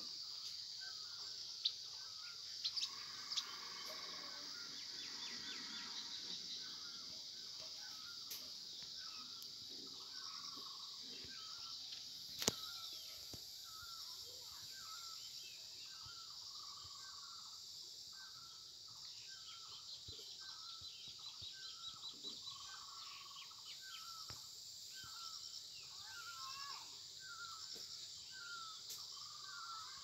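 Birds chirping in forest, one bird repeating a short call over and over, about once or twice a second, over a steady high-pitched buzz; a single sharp click about twelve seconds in.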